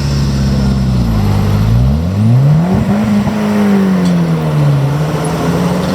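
M3 half-track's White 160AX six-cylinder gasoline engine pulling away under load. The engine note sinks, rises sharply as it revs up about two seconds in, then eases back down.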